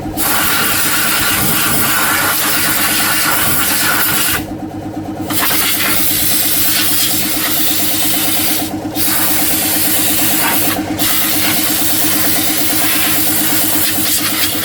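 Electric power tool, such as an angle grinder, running steadily and grinding or brushing metal with a dense hiss. The grinding cuts out briefly three times, about a third of the way in, near the middle and a bit later, while the motor keeps running.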